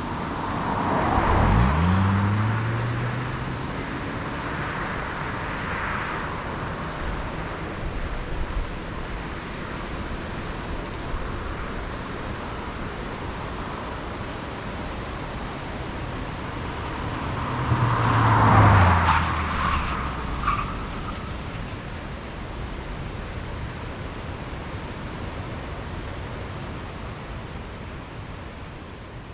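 A 2022 Lexus ES 300h hybrid sedan driving, its 2.5-litre four-cylinder petrol engine running over steady road and tyre noise. The sound swells twice: about two seconds in with the engine note rising, and again around eighteen seconds in with the note falling away.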